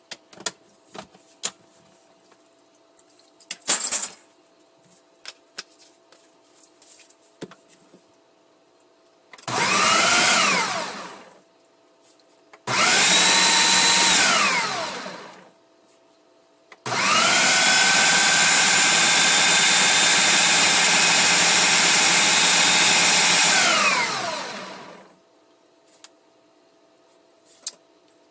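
Food processor grinding raw chicken breast, run in three pulses: two short ones, then one steady run of about seven seconds. Each starts with a rising motor whine and ends with a falling whine as the blade spins down. Before the runs come a few scattered clicks and knocks.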